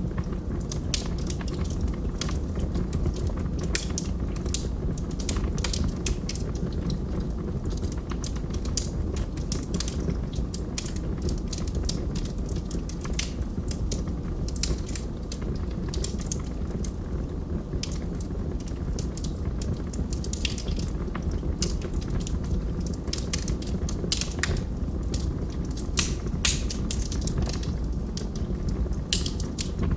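Wood logs burning in a fireplace: frequent sharp crackles and pops at irregular intervals over a steady low rumble of the fire.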